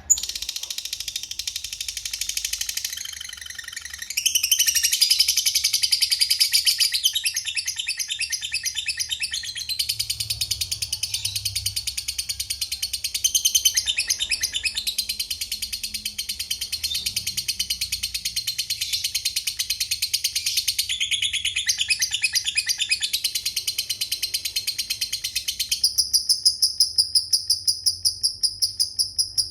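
Lovebird chattering in long, rapid, high-pitched trills (the 'ngekek panjang' long chatter), starting abruptly. Near the end it switches to an even run of repeated short ticking notes.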